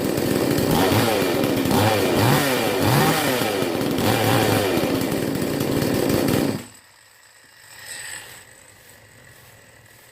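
Petrol chainsaw's two-stroke engine running and revving up and down repeatedly, then cut off abruptly about six and a half seconds in.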